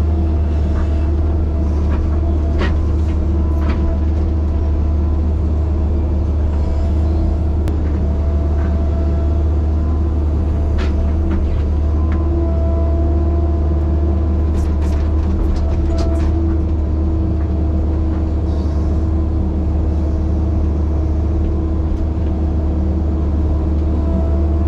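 Large excavator's diesel engine running steadily, with scattered knocks and clanks as it works.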